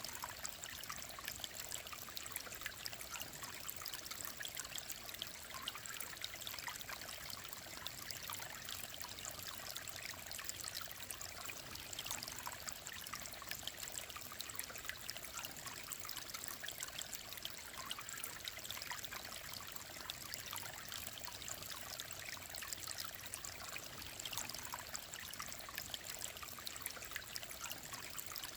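Clear mountain stream flowing steadily, a continuous trickling and babbling of water with fine splashes and no let-up.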